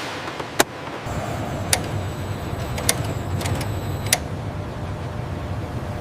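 Steady machinery noise with a low rumble that thickens about a second in, broken by half a dozen sharp clicks or knocks in the first four seconds.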